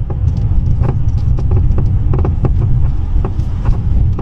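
Mercedes-Benz C-Class driving over uneven road: a steady low road rumble with irregular knocking clicks from the right-front suspension. This 'clucking' noise is the sign of a failed shock absorber top mount rubber.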